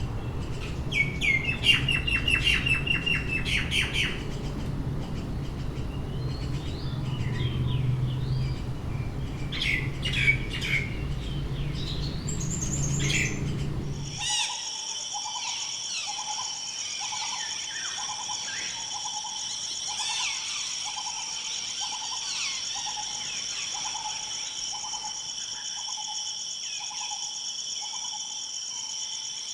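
Birds calling: chirps and trills over a low rumble, then about halfway through an abrupt change to a steady high-pitched drone with a short low note repeating about one and a half times a second beneath other bird calls.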